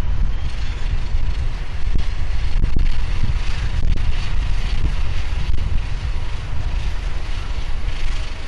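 Wind buffeting the microphone in a steady low rumble, over the hiss of a jet airliner's engines that swells a little twice.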